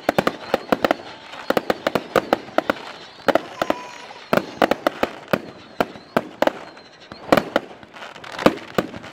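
Fireworks going off in rapid, irregular bangs and cracks, several a second.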